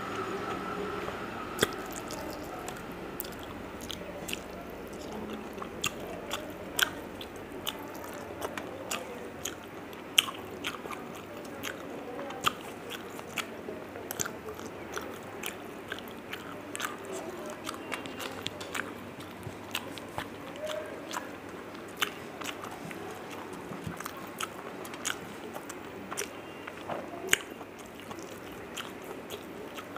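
Close-miked chewing and eating sounds of a person eating rice and fish-roe dishes with her hands, with many sharp, irregular smacking clicks.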